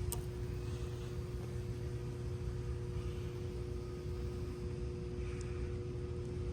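Power recliner's electric actuator motor running with a steady hum while the chair moves under test, after a sharp click at the start.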